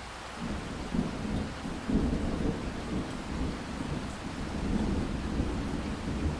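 Steady rain hissing, with a low rolling rumble of thunder that builds about half a second in, swells twice near the start and keeps rumbling.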